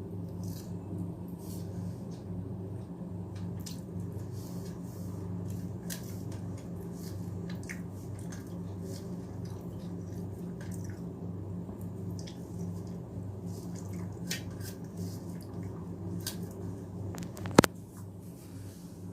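Close-up eating sounds: soft squishing of rice mixed with milk and mashed potato, with scattered small wet clicks of chewing and lip smacks over a steady low hum. One sharp click, the loudest sound, comes near the end.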